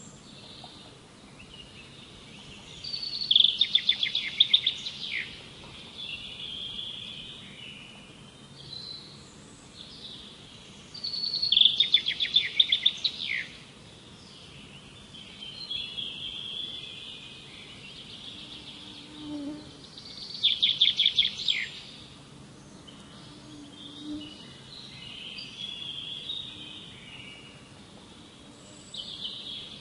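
Songbirds singing: one bird repeats a loud phrase of rapid, evenly spaced notes three times, roughly every eight or nine seconds, with softer chirps and twitters between.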